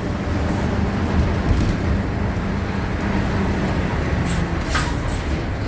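Mercedes-Benz OF-1519 city bus's diesel engine running steadily under way, a continuous low drone. A few short, high hisses break in, one about half a second in and several near the end.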